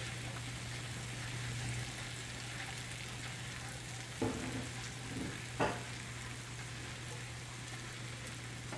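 Steady hiss of rain over a low hum, with a few light clinks of kitchenware between about four and six seconds in.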